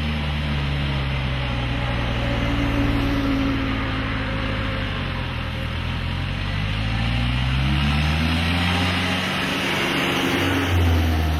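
A vehicle engine running steadily under road or wind noise. Its pitch drops about the middle, climbs again a few seconds later, and shifts once more near the end as the revs change.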